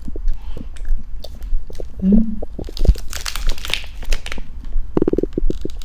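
Close-up chewing and lip-smacking while eating, a run of small wet clicks, with a brief rustle about three seconds in.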